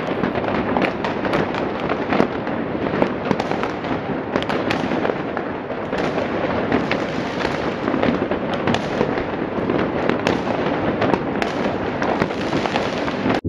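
Many fireworks going off together: a dense, continuous crackle with frequent sharp bangs.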